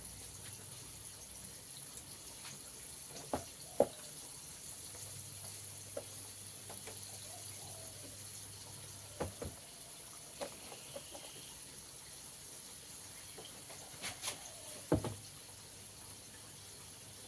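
Flour-coated chicken deep-frying in hot oil, a steady soft sizzle, with a few sharp clicks and knocks of a utensil against the pan now and then.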